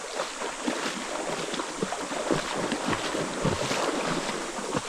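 Waterfall water rushing and splashing into its pool, a steady loud wash with irregular splashes throughout.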